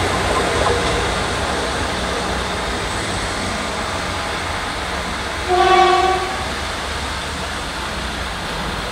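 Diesel multiple unit pulling away, its engine and wheel rumble slowly fading, with one short single-note horn blast a little over halfway through.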